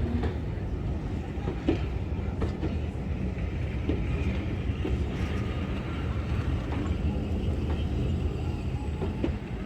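Steam-hauled train behind GWR Manor-class 4-6-0 No. 7828 Odney Manor rolling slowly into a station. A steady low rumble, with scattered clicks and clanks from the wheels and rolling stock.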